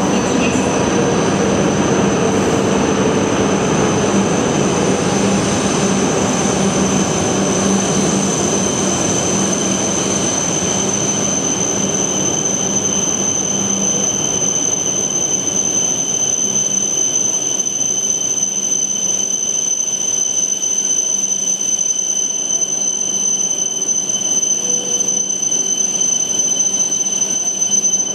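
A Shinkansen train running along a station platform: a loud, steady rumble of wheels and running gear that fades gradually, with a high-pitched whine held throughout. The sound cuts off suddenly at the end.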